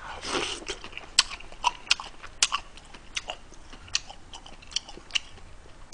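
Close-miked chewing of a mouthful of spicy stir-fried squid and pork with rice, irregular wet clicks and smacks of the mouth.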